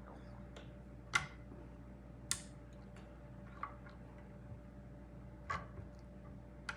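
Scattered light clicks and taps of small 3D-printer parts being handled and fitted onto the Z-axis rods, the sharpest about a second in, over a faint steady hum.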